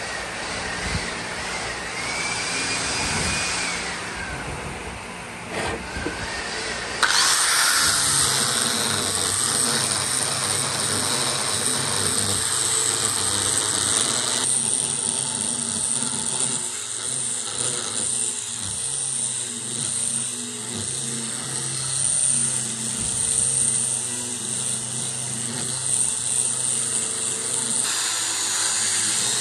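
Power tools running in a woodworking shop. The machine noise is steady, with sudden changes in sound about seven and fourteen seconds in and again near the end.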